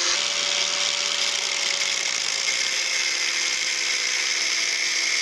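Small power tool running steadily as it cuts down a short metric Allen bolt, a continuous whine over the hiss of metal being cut.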